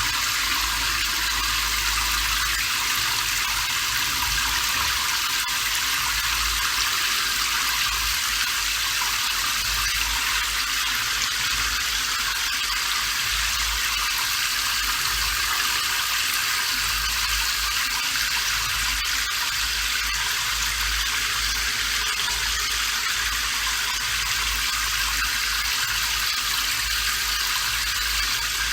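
Steady rain falling, an even constant hiss with no break.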